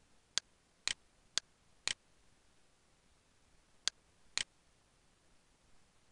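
Computer mouse button clicking: three pairs of sharp clicks, each a short click followed about half a second later by a slightly longer one, the first two pairs close together and the third about two seconds later.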